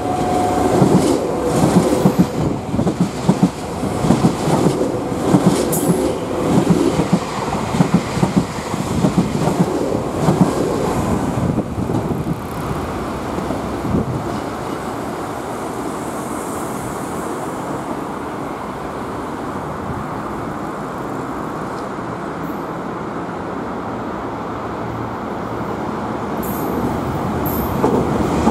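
A Nankai 6000 series stainless-steel electric train passes through the station at speed without stopping, its wheels clattering rhythmically over rail joints for about the first twelve seconds. After that it settles into a steadier, quieter rumble as it runs away. Near the end another train's noise grows louder as it approaches.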